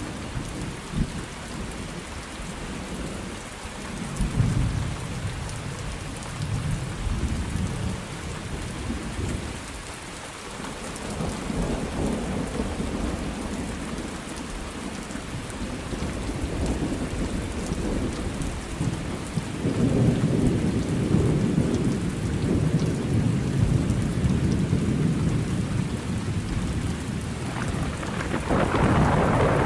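Steady rain falling, with rolling thunder rumbling in long low swells throughout; a louder, sharper peal of thunder starts near the end.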